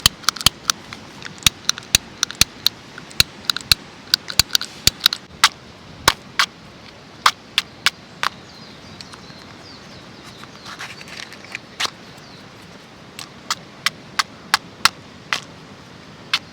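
A lighter being struck again and again, giving sharp dry clicks in quick irregular runs without catching. The lighter is damp.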